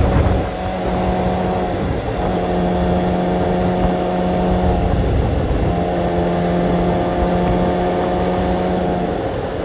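Motorcycle engine running at a steady pitch while riding, with wind rumble; the note breaks off briefly about two, five and nine seconds in, then picks up again at the same pitch.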